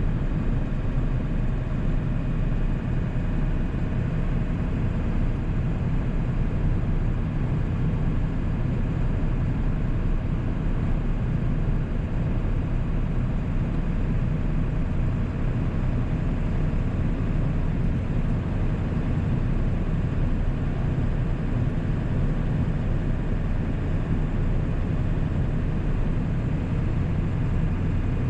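A 1997 7.3 Powerstroke turbo-diesel V8 running steadily while the truck cruises, with a deep, even drone and road noise.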